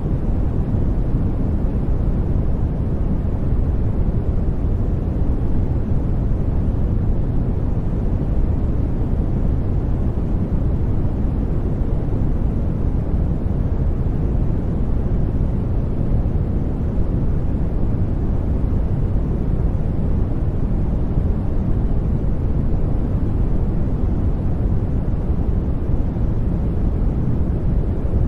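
Steady, electronically generated noise for sleep, unchanging throughout: a deep, even rush that is strongest in the low end, with little high hiss on top.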